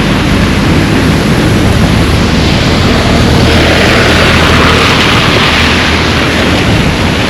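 Rain and wind rushing on the microphone of a camera carried through a downpour: a loud, steady hiss that swells for a couple of seconds in the middle.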